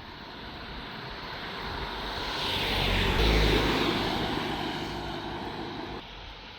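A vehicle passing close by: its noise swells to a peak about three seconds in, then fades away.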